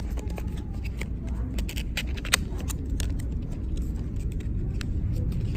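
Small items being handled: a run of light clicks and taps, with one sharper knock a little over two seconds in, over a steady low hum.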